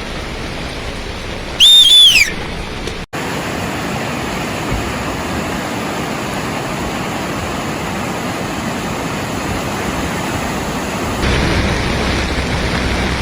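Steady rushing of floodwater, with a short loud high whistle falling in pitch about two seconds in. After a cut about three seconds in, the rushing carries on evenly and turns louder and deeper near the end.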